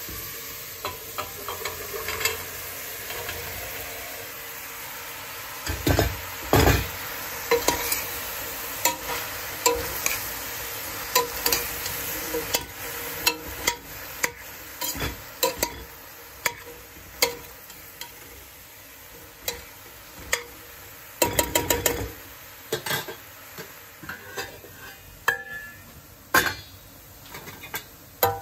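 Chopped onion and broad bean pods sizzling in olive oil in a stainless steel pot while a metal spoon stirs them, scraping and clinking against the pot. The loudest clatters come about six seconds in and again about twenty-one seconds in.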